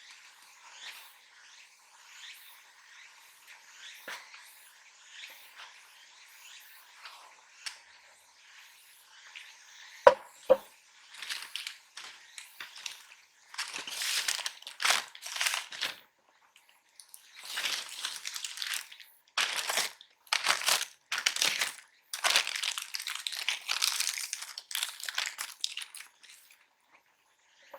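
Crinkling and crumpling of wrapping material in irregular bursts, after two sharp clicks about ten seconds in.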